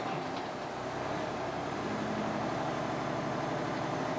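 Heavy truck's engine running hard at full throttle, a steady drone, while the drive wheels slip on snow as the truck gathers speed.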